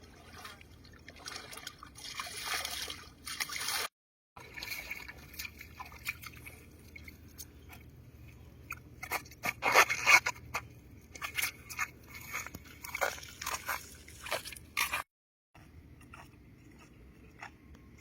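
Water sloshing and dripping, with irregular crunching and scraping, broken twice by sudden cuts to silence.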